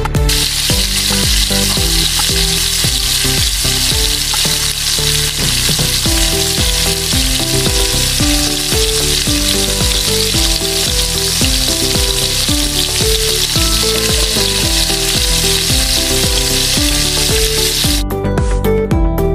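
Turon, saba banana rolls in lumpia wrappers, frying in hot oil in a wok: a steady sizzle that stops about 18 seconds in, heard over background music.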